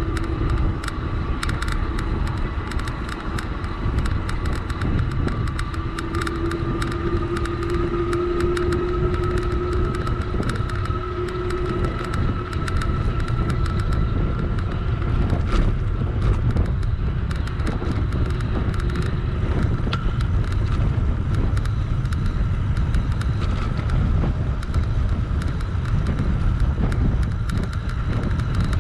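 Wind rumbling on the microphone of a moving electric bike, with many light clicks. A steady whine rises slightly in pitch over the first dozen seconds, then fades.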